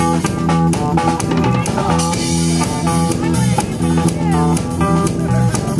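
Rock band music, electric guitar over a drum kit with a steady beat.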